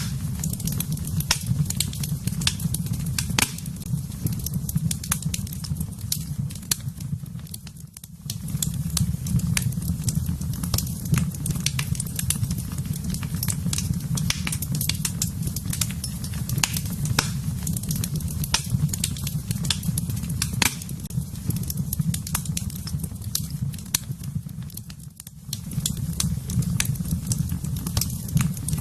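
Wood fire crackling in a fireplace: frequent sharp snaps and pops over a steady low rumble. The rumble dips briefly twice, about eight seconds in and again a few seconds before the end.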